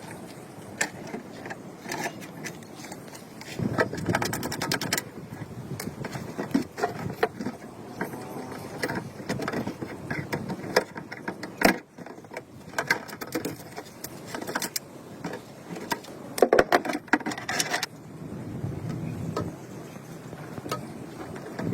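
Hand work on small mechanical parts: irregular clicks, taps and scraping, with a run of rapid clicking about four seconds in and another longer one near the end.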